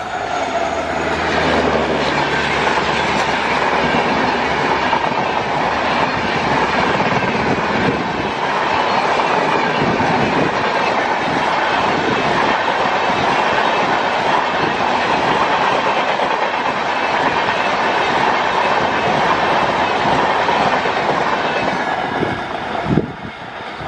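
An Indian Railways express train's coaches passing at speed, wheels clattering over the rail joints in a steady rush. The locomotive's low hum fades in the first couple of seconds. Near the end the noise drops away with a final knock as the last coach passes.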